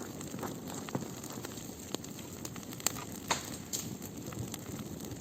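Wood bonfire burning, a steady low rush of flame with sharp crackles and pops scattered through it.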